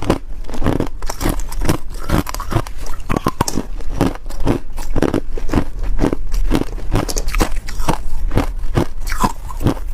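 Ice being bitten and crunched between the teeth: a quick, steady run of sharp crunches, several a second.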